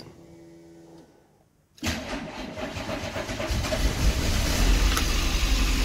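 1990 VW Golf MK2 GTI's four-cylinder petrol engine starting after a fuel pump repair: it cranks and catches about two seconds in, then runs with a growing low rumble. The owner suspects it is low on petrol.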